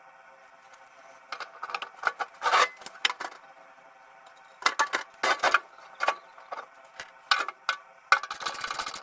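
Tools and metal furnace parts clinking and knocking at an irregular pace during an ECM blower motor swap, over a faint steady hum.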